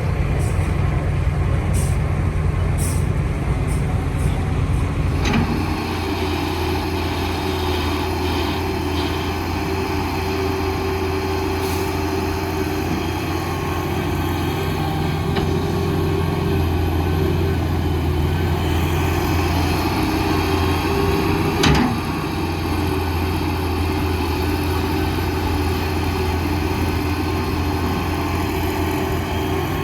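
Heavy diesel construction machinery running steadily, its engine drone unbroken, with one sharp clank a little over two-thirds of the way through.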